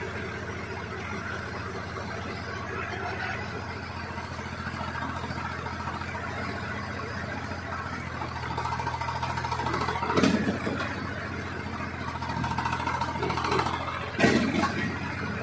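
Tractor engine running steadily at a low, even pitch. Two sharp knocks cut across it, about ten and fourteen seconds in.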